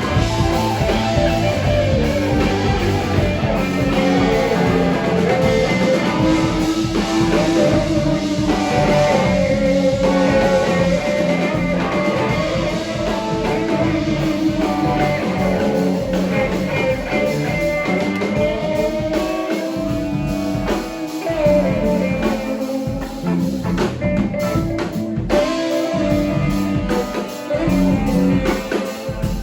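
Live band playing blues-rock: guitar lines with held, bending notes over bass and drum kit.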